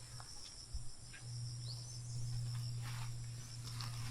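Insects chirring steadily in a high, continuous drone, over a low steady hum, with a few faint ticks.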